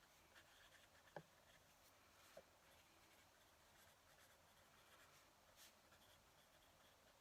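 Faint scratching of a fountain pen nib on paper, in short irregular strokes. Two brief sharp ticks stand out, about a second in and again a second later.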